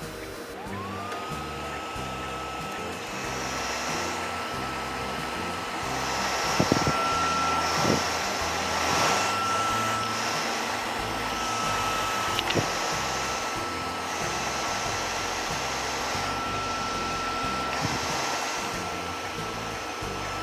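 Small air purifier's fan motor starting up, its whine rising in pitch over the first second, then running at a steady whine with a rush of air. This is a running check after its rattle was treated. A few light knocks sound about 7, 8 and 12 seconds in.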